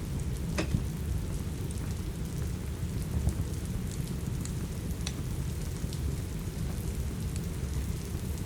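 Steady rain with a deep, even rumble, and a crackling wood fire giving a few sharp, scattered pops over it.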